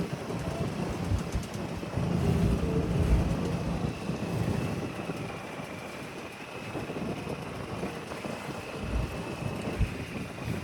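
A motorboat's engine runs steadily while wind buffets the microphone in gusts.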